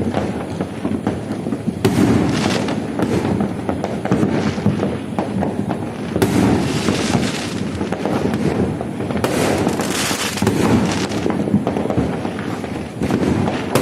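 A fireworks display going off without pause: a dense run of overlapping bangs and crackles, swelling louder a few times.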